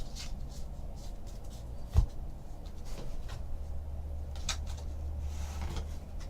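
Trading cards and their pack wrapper being handled on a table: light rustles and small clicks, with a single sharp knock about two seconds in, over a steady low hum.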